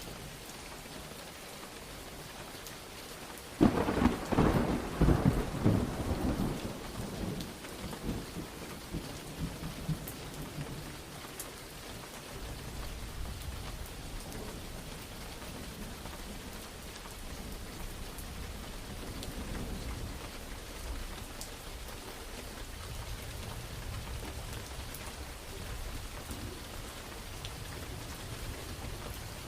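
Steady rain with a sudden close thunderclap about three and a half seconds in, crackling and rumbling away over several seconds, then low thunder rumbling on under the rain.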